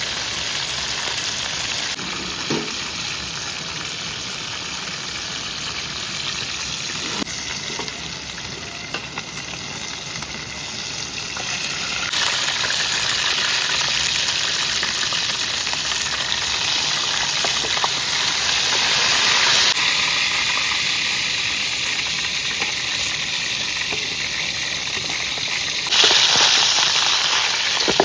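Food sizzling steadily in hot oil in a pan, with a few short crackles, the sizzle changing level abruptly several times.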